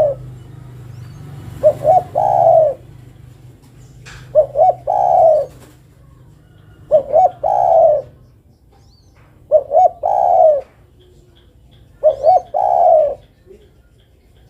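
Female spotted dove cooing, a call that draws males. It gives five calls about two and a half seconds apart. Each call is two short notes and then a longer one.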